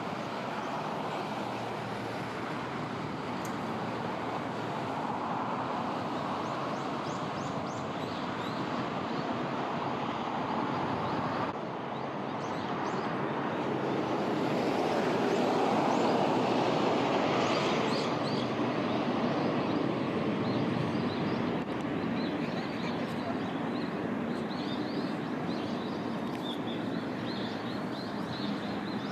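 Outdoor ambience: a steady rushing noise that swells for a few seconds about halfway through, with small birds chirping faintly above it.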